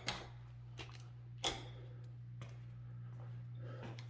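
Steady low electrical hum with a few sharp clicks and taps over it, the loudest about a second and a half in.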